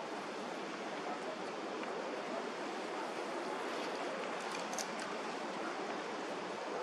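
Steady rushing noise of a Boeing 777's jet engines, even in level, with no distinct tones.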